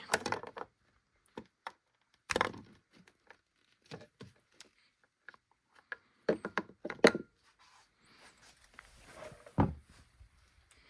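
Scattered knocks, clicks and light thuds of an outboard motor's oil filter being unscrewed by hand and pulled off. The loudest knocks come about two seconds in, around six to seven seconds in, and near the end.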